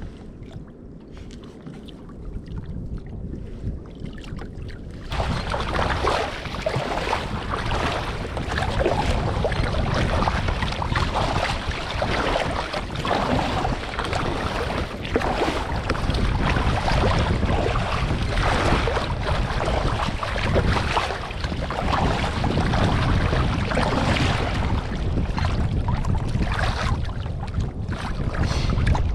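Wind rushing on the microphone and water sloshing around a kayak at sea. The hiss grows suddenly much louder about five seconds in, and stays rough and gusty after that.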